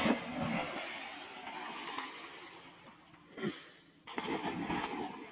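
Splashing water as boys jump into a small natural pond: a noisy splash starts suddenly, then a second one about four seconds in.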